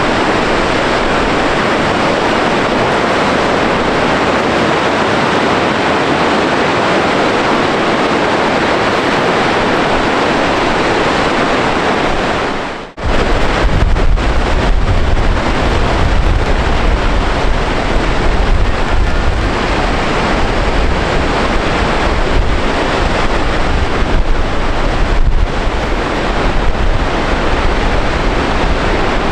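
Gullfoss waterfall's roar, a loud steady rush of falling water. About halfway through it cuts out for an instant and comes back with wind buffeting the microphone, adding a gusty low rumble.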